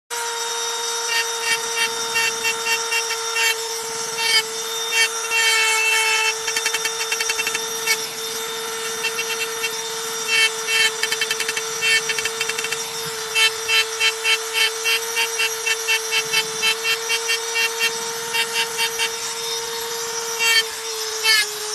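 Small electric drill running steadily with a constant whine, its bit cutting into wood in repeated short bouts of fast rasping strokes as a picture is carved.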